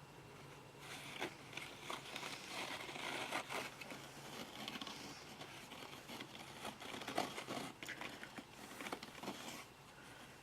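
Close, irregular crinkling and crunching from hands working with succulents and their pots, starting about a second in and stopping near the end.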